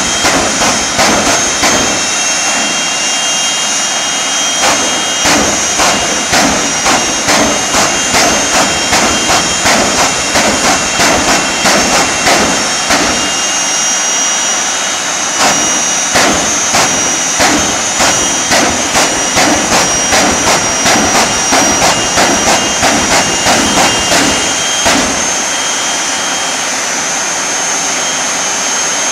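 Jet engine running with a steady high-pitched whine over a loud rush, with sharp regular pulses about twice a second through most of it.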